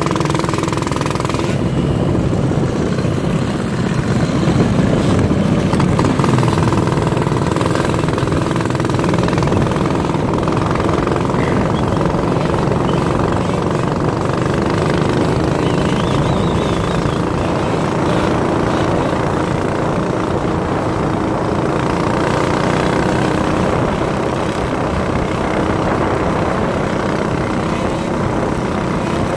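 Minibike's small engine running steadily at an even pitch, with a rapid chattering beat.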